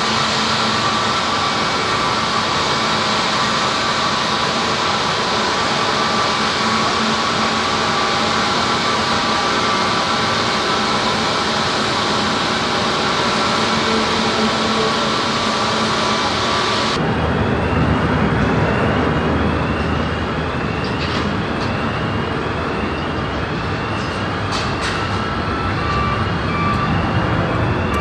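Jet airliner engines running at taxi power: a loud, steady rush with several steady tones above it. About two-thirds of the way through it cuts abruptly to another aircraft, with a deeper rumble.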